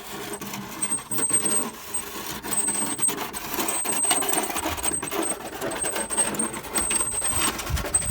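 Hard construction rubble clattering and scraping as pieces are moved, a dense run of irregular clinks and knocks.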